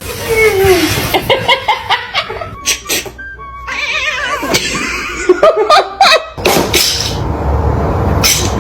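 A person laughing in short, repeated bursts.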